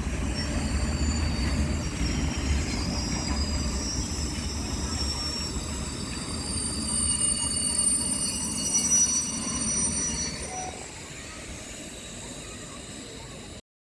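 Train rolling past with thin, high-pitched squeals from its steel wheels on the rails over a low rumble. The rumble fades away about ten seconds in, and the sound cuts off abruptly near the end.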